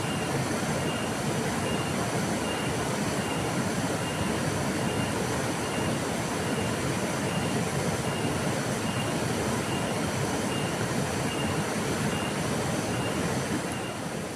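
Flowing river water, a steady even rush. A faint high peep repeats about every half second over it.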